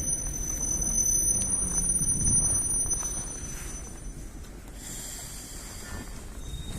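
Ivolga electric commuter train approaching: a low rumble that swells over the first couple of seconds and then eases off, with a thin, steady high-pitched whine over it.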